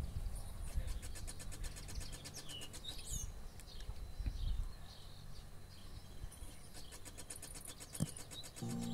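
Birds chirping faintly in a quiet lull, with a single sharp click about eight seconds in. Music starts from the Aiwa LCX-300 mini hi-fi's speakers right at the end.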